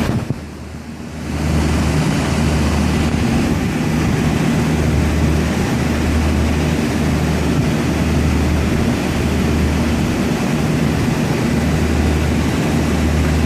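Air-conditioning condenser unit starting about a second in, then running steadily with a low hum and a rushing noise, on a freshly replaced capacitor after the old one failed.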